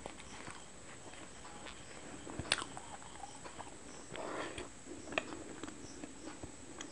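Close-miked chewing with soft wet mouth clicks and lip smacks, and one sharper click about two and a half seconds in.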